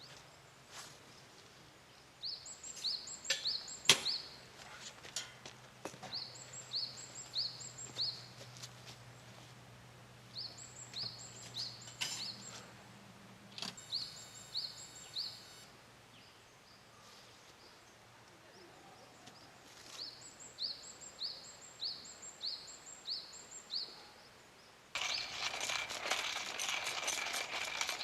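A songbird singing the same short phrase of several quick high notes again and again, with pauses between. There is a single sharp crack about four seconds in, and near the end a louder, denser sound with a high steady buzz takes over.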